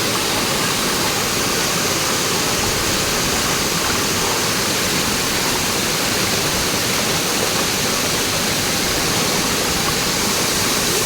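Waterfall: water falling and rushing without a break, a loud, steady noise.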